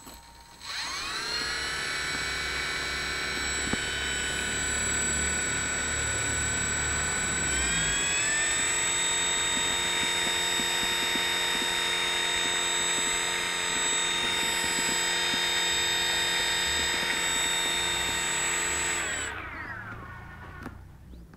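Electric motor of an Airco DH-2, driving its propeller: it spins up with a rising whine, steps up to a higher speed partway through, runs steadily with a high-pitched electric whine, then winds down near the end.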